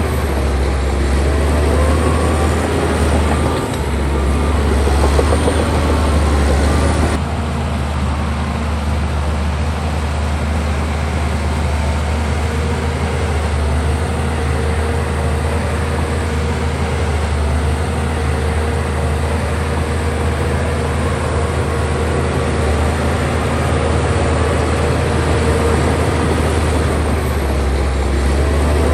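A bulldozer's heavy diesel engine running steadily as a deep drone while it works. The mix of sound changes abruptly about seven seconds in.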